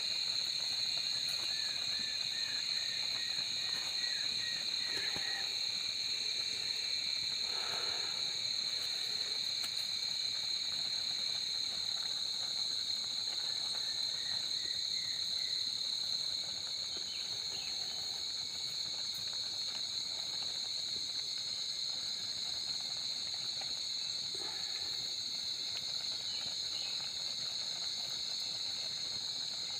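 A night chorus of insects keeps up one steady, unbroken high-pitched trill. A faint run of short chirps comes twice, near the start and about halfway through.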